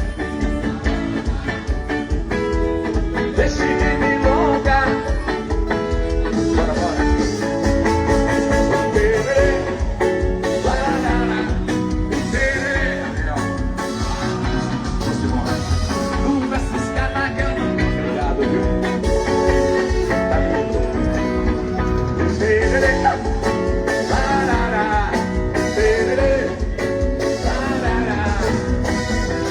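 Band music with a steady drum beat and melodic guitar lines, played loud through a trio elétrico sound system during a sound check.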